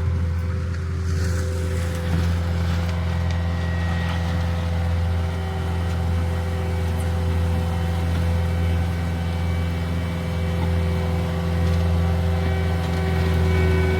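A heavy equipment engine running steadily at an even speed, a constant low hum with steady higher tones, without revving.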